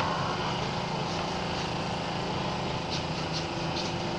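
A small engine runs steadily throughout. A few short scratchy strokes come near the end, a brush working over the radiator fins.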